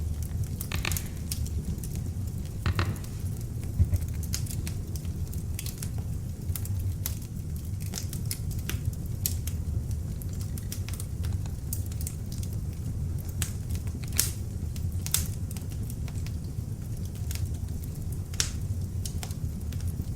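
Beech log fire burning in an open fireplace: a steady low rush of flames with irregular sharp crackles and pops scattered throughout.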